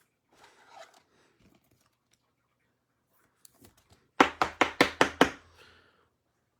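Six quick, sharp knocks about four seconds in, roughly five a second, after some faint handling rustle.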